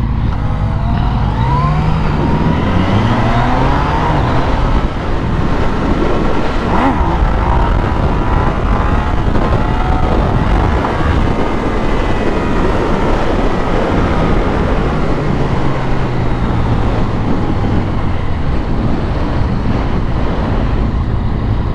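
Motorcycle engine pulling through the gears, its pitch climbing in steps during the first few seconds, then running at a steady cruise that eases off later. Heavy wind rush on the rider's microphone throughout.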